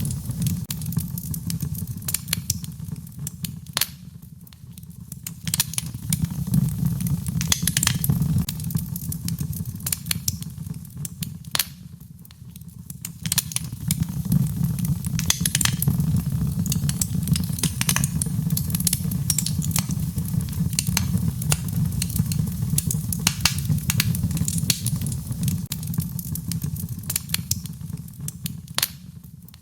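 Wood fire crackling, with scattered sharp pops and snaps over a steady low rumble of flames. The rumble eases off briefly about four seconds in, again about twelve seconds in, and near the end.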